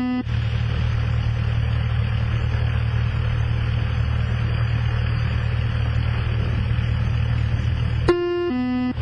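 Cessna 172SP Skyhawk's four-cylinder Lycoming engine and propeller droning steadily inside the cockpit. A two-note repeating electronic tone sounds briefly at the start and again about 8 seconds in.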